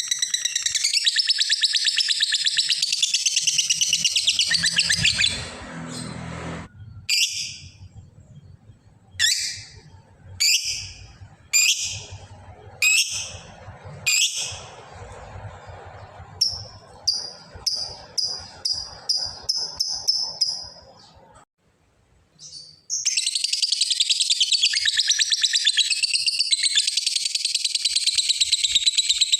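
Lovebird's long 'ngekek': a fast, continuous high-pitched chattering trill. It breaks after about five seconds into single sharp calls about once a second, then a quicker run of short notes and a brief pause, before the fast chatter starts again and runs on.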